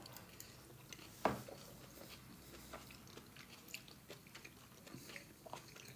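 A man chewing a mouthful of soft gnocchi: faint, wet mouth sounds with scattered small clicks, and one sharper click just over a second in.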